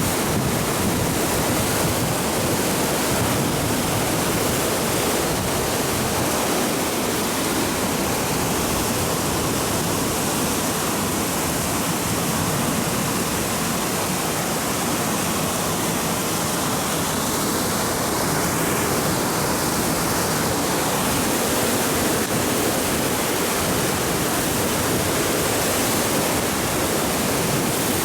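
Steady rushing of a flood-swollen river in spate, an even unbroken hiss of fast-moving water.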